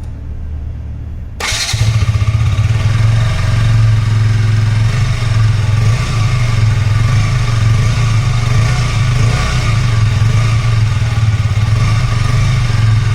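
KTM Duke 200's 199.5cc single-cylinder, liquid-cooled engine catching about a second and a half in, then idling steadily through its exhaust.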